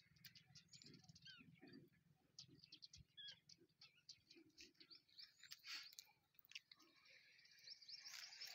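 Near silence with faint, scattered bird chirps and a quick run of repeated rising chirps near the end.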